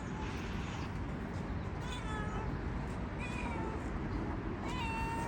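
Domestic cat meowing three times: two short calls about two and three seconds in, and a longer, drawn-out meow near the end, over a steady low background noise.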